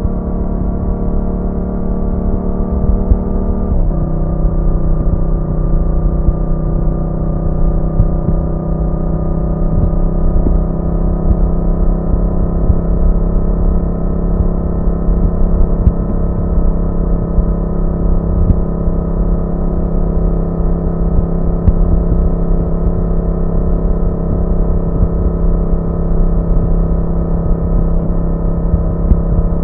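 Yamaha MT-07's 689 cc parallel-twin engine running at a steady cruise under a rider, with wind rumble underneath. About four seconds in the engine note drops suddenly to a lower pitch, then holds steady.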